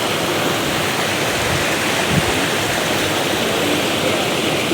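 Steady rushing of flowing water from a small waterfall or stream, with a brief low bump about two seconds in.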